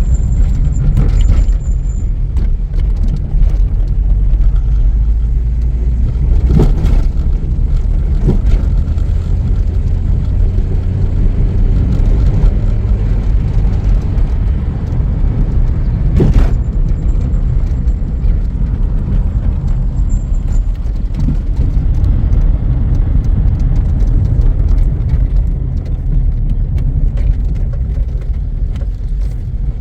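Car on the move: a steady, loud low rumble of engine and road noise, with two sharp knocks, one about a third of the way through and one about halfway.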